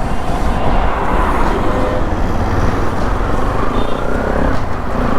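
Bajaj Pulsar NS200 single-cylinder engine running through an aftermarket full-system exhaust, steady and loud, mixed with the noise of road traffic.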